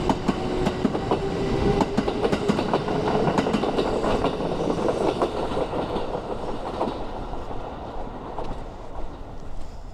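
Kintetsu Suzuka Line electric train pulling away: its wheels clack over the rail joints and its motor whine rises in pitch as it picks up speed. It fades over the last few seconds.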